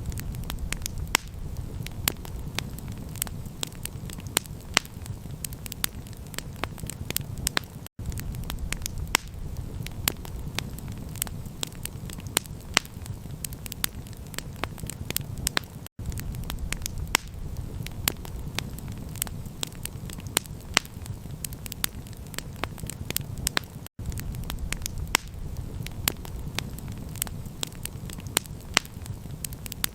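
Campfire crackling: frequent sharp pops and snaps over a steady low rumble, with a brief cut in the sound about every eight seconds.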